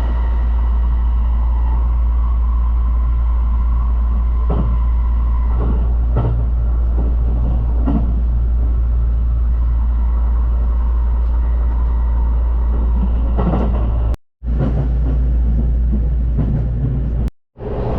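Haruka limited express electric train running, a steady low rumble with a few short knocks along the way. The sound breaks off briefly twice near the end.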